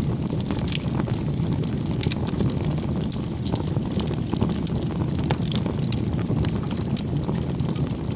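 Wood fire burning: a steady low rumble with irregular small crackles and pops.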